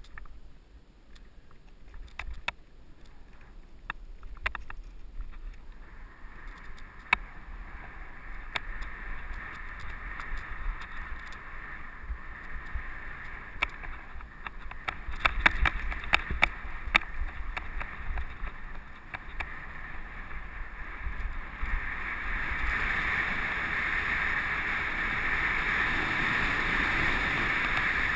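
Mountain bike riding a dirt trail: tyre noise with frequent sharp clicks and rattles from the bike, and wind rushing over the helmet camera. The noise builds steadily and gets much louder about three quarters of the way through as the bike picks up speed.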